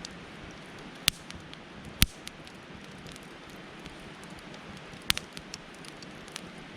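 Wood campfire crackling: a steady hiss broken by a few sharp pops, the loudest about one, two and five seconds in.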